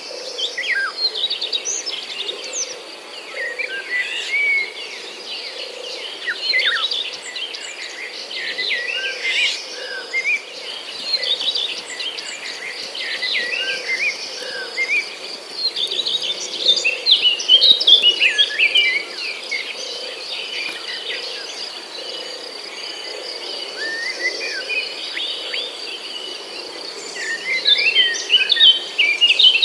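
Many birds chirping and calling in quick, overlapping short phrases over a steady high insect trill, with livelier bursts of song about midway and near the end.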